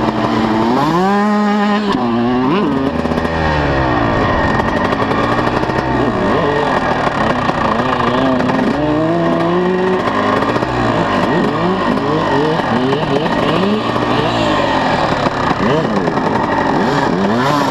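125cc two-stroke motocross bikes revving up and down over and over, the engine note rising and falling every second or two, with more than one bike's engine heard at once at times.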